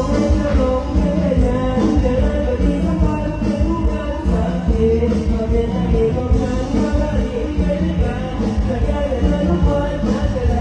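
Live band music with singing, played loud through a stage sound system, with a heavy, steady bass.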